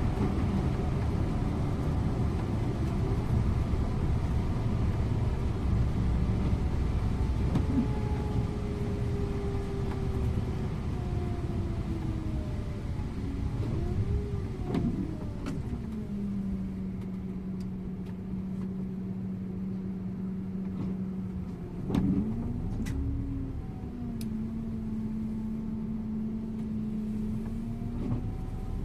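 Scania InterLink bus slowing down, its engine and drivetrain tones falling. It then settles into a steady hum for several seconds. There is a sharp knock about two-thirds of the way in, and near the end the tone rises as the bus pulls away.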